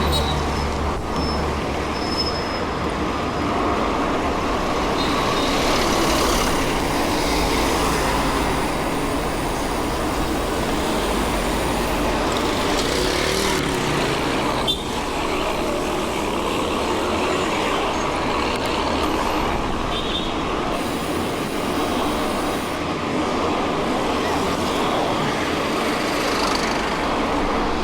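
Mountain bike rolling along a dirt road: a steady rumbling noise of the tyres on the loose surface.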